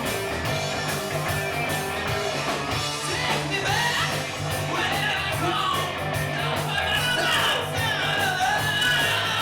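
Live rock band playing a rock'n'roll number with electric guitar, bass and drums. From about three seconds in, a high lead line slides and bends in pitch over the steady beat.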